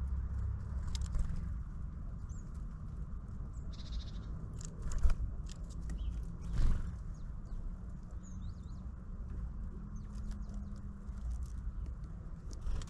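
Short, faint, high calls of small birds at a bird feeder, among scattered light taps and a couple of louder knocks about five and seven seconds in, over a steady low rumble.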